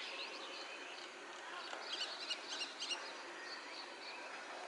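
Common myna calling: a quick run of short, sharp, high notes starting about two seconds in, with fainter chirps before it over a steady background hiss.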